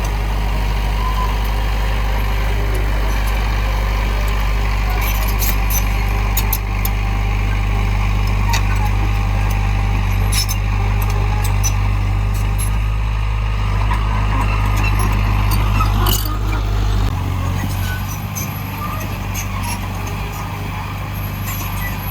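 Heavy diesel engine of an earthmoving machine, a dump truck or bulldozer, running steadily at a low rumble, with scattered sharp clanks and knocks. About three-quarters of the way through, one louder knock comes and the engine drops back to a quieter, lower run.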